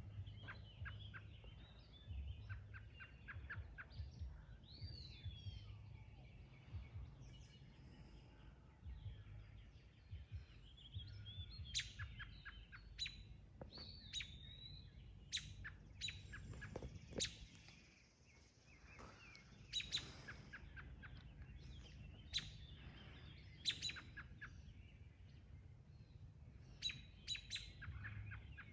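Several songbirds calling and singing: quick runs of repeated chips, sharp single chirps and short whistled glides, scattered throughout, over a faint low steady rumble.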